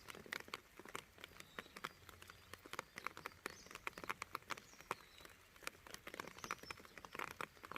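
Rain falling as scattered, irregular drops that tap sharply on hard surfaces, several a second, over a faint steady hiss.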